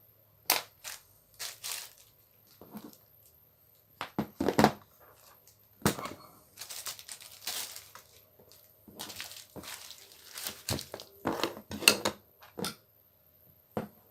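Irregular clicks, taps and rustling from small parts of an angle grinder being handled, with bursts of crinkling between the clicks.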